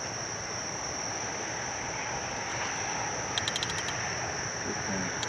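Steady nighttime insect chorus, a constant high-pitched drone, with a quick run of rapid chirps about three and a half seconds in.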